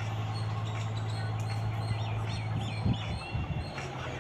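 Birds chirping in short, quick calls over a steady low hum and outdoor background noise, with a few dull thumps about three seconds in.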